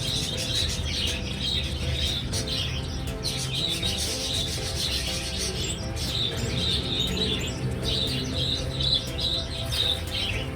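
Birds in an aviary chirping repeatedly in short high calls, over a steady low hum.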